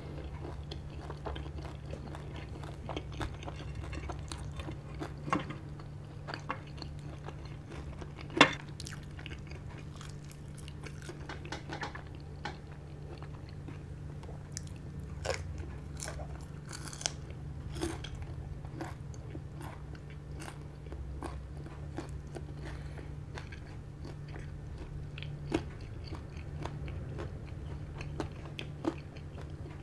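Close-up crunching and chewing of crispy deep-fried pork knuckle skin (crispy pata), with many sharp crackles, the loudest about eight seconds in. A steady low hum runs underneath.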